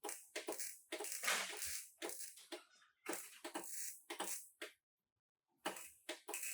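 Irregular clattering knocks and scraping noises in short bursts, broken twice by sudden total silence about three seconds in and again just before the end.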